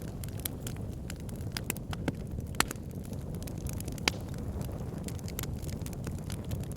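Logs burning in a fireplace: a steady low rumble of flame with irregular crackles and sharp pops, two louder pops a little over a second apart in the middle.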